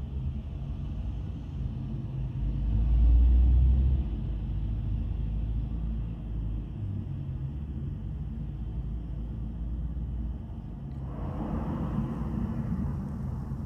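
Low, steady vehicle rumble that swells louder about three seconds in; a broader rushing hiss rises near the end.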